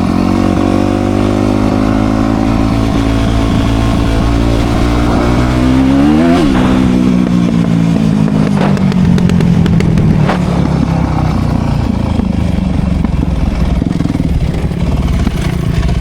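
Dirt bike engine running under way, its pitch climbing to a peak about six seconds in, then dropping back and running less evenly, with a few sharp knocks later on.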